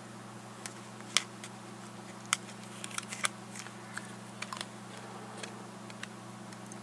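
Irregular small, sharp clicks and taps of plastic parts of a GPS unit's screen assembly being handled and pried apart by hand, over a steady low hum.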